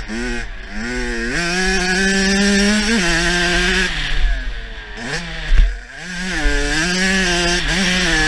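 Kawasaki KX85's 85cc two-stroke single-cylinder engine revving hard on the throttle, the pitch climbing and dropping with gear changes, with wind rushing on the microphone. About five seconds in the engine note falls away briefly and a loud low thump stands out before the revs pick up again.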